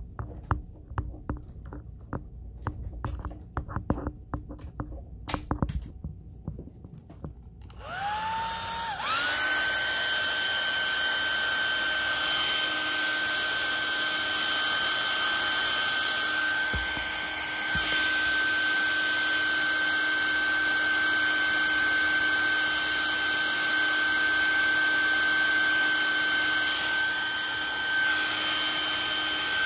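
Clicks and knocks of handling, then about eight seconds in a hair dryer switches on, its motor whine rising and settling into a steady blowing rush that dips briefly twice. It is blown onto a sewing machine's feed-dog mechanism that is stuck, possibly frozen.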